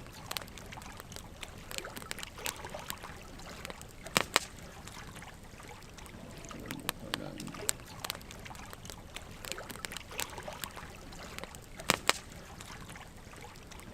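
Wood logs burning in a campfire, crackling with irregular sharp pops over a steady hiss of flame, with two louder pops about four seconds in and near the end.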